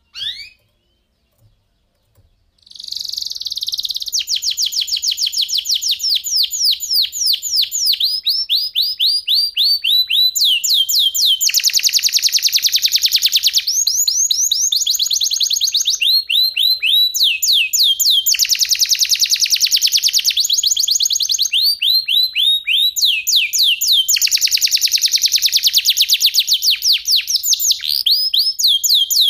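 Domestic canary singing a long unbroken song after a short opening chirp. The song is fast repeated falling notes broken by three stretches of dense rolling trill, and it stops abruptly near the end.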